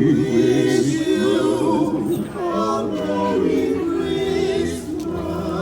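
Several voices singing together without instruments, held, wavering notes throughout.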